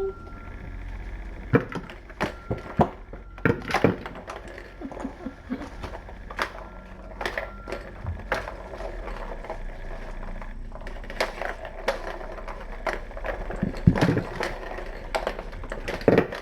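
Kittens playing: an irregular scatter of small clicks, taps and knocks from toys and paws, with a few sharper knocks.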